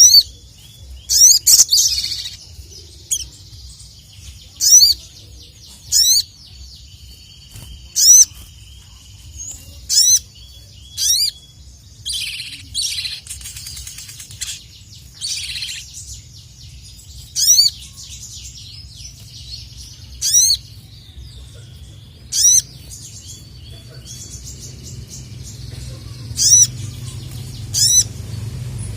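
Ruby-cheeked sunbird (sogok ontong) calling: loud, high, sharp call notes repeated every second or two, with a few chattering passages in the middle. A steady low rumble runs underneath and grows louder near the end.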